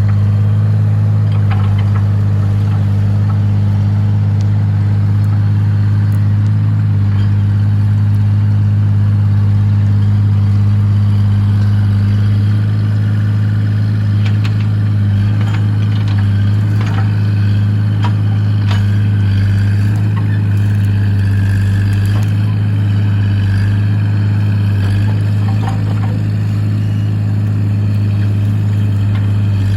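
Excavator engine running steadily, with scattered clanks and knocks over the hum.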